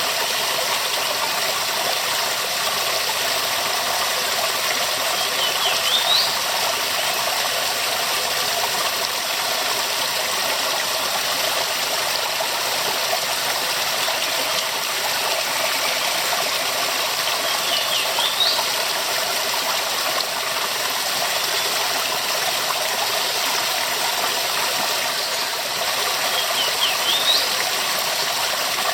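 Waterfall rushing steadily, a dense even roar of falling water. A short high rising chirp cuts through three times.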